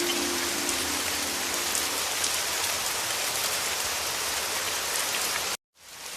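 Heavy rain falling in a steady, dense hiss, with a few low held musical notes fading out in the first two seconds. Near the end the sound cuts to silence for a moment and then fades back in.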